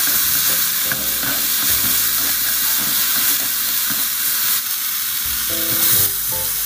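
Minced garlic, sliced green onion and chilies sizzling in hot oil in a frying pan, stirred with a wooden spatula. About six seconds in, the thawed seafood mix is tipped in and the sizzle briefly grows louder.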